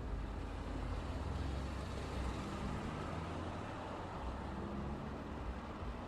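Road traffic going by steadily: a continuous low rumble of tyres and engines from cars and heavier vehicles, with a faint engine hum underneath.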